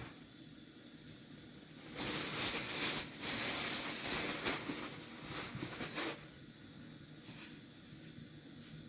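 A loud hissing noise, starting suddenly about two seconds in and stopping about four seconds later, over a quieter steady background.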